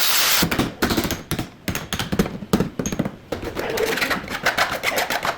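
A steady spray hiss cuts off about half a second in. It is followed by a run of irregular sharp clicks and knocks.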